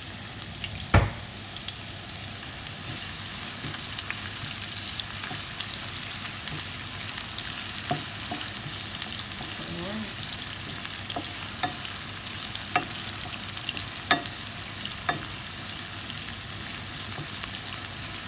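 Sliced onions sizzling in hot oil in a frying pan as they are stirred, with a steady hiss and a stirring utensil knocking against the pan now and then. The loudest knock comes about a second in.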